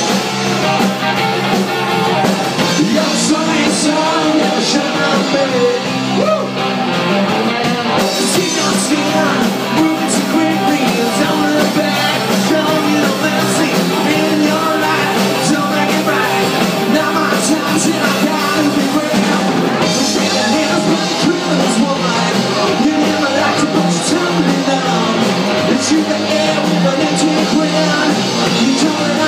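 Rock band playing live, with drums and cymbals over guitars and some singing.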